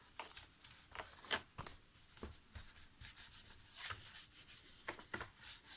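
Short, irregular rubbing strokes as the plastic cliff sensors on the underside of an iRobot Roomba 696 are wiped clean.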